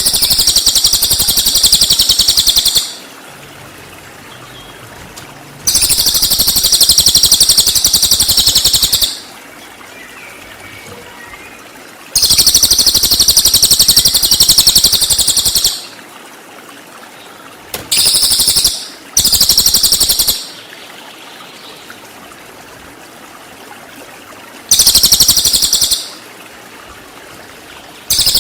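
Recorded song of a cililin (pygmy tit): loud bursts of very rapid, high-pitched trilling, each a second to three and a half seconds long, repeated about six times with pauses of a few seconds. Two short bursts come close together in the middle. A faint steady trickle of water runs underneath.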